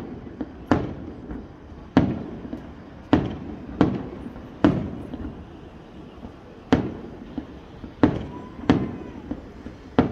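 Fireworks display: about eight sharp bangs of bursting fireworks in ten seconds, at uneven intervals, each followed by a rolling echo.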